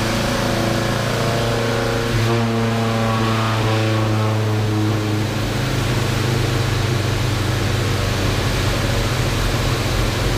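Volvo B20 four-cylinder engine idling steadily on a chassis dyno, with no revving, under a steady rushing noise.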